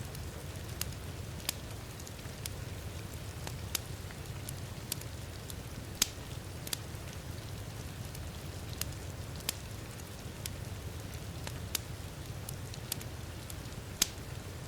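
Wood fire crackling, with irregular sharp pops about one or two a second, the two loudest about six seconds in and near the end, over a steady rush of heavy rain.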